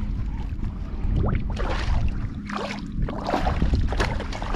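Water splashing and sloshing beside a kayak in a series of bursts, over a steady low rumble of wind on the microphone.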